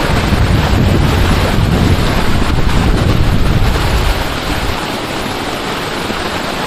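Steady loud rush of a waterfall's falling water, with wind buffeting the microphone as a low rumble through the first four seconds or so.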